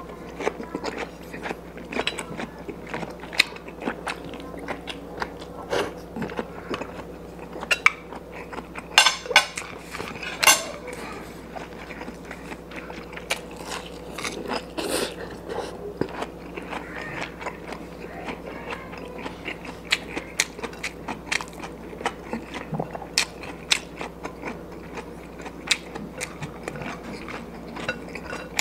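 A person eating by hand: chewing and mouth noises with frequent short smacks and clicks, the sharpest of them about nine to ten seconds in.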